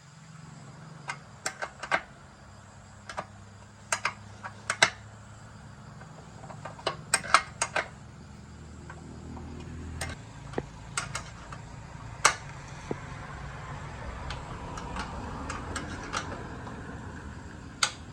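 Scattered sharp clicks and light knocks, in small clusters, over a steady low hum.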